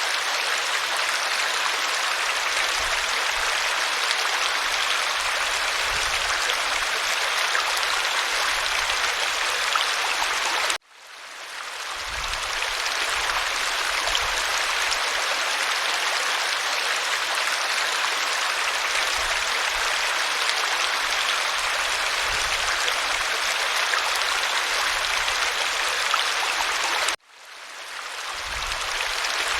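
Waterfall: a steady rush of falling water. It cuts out suddenly twice, about eleven seconds in and near the end, each time fading back in over a second or so.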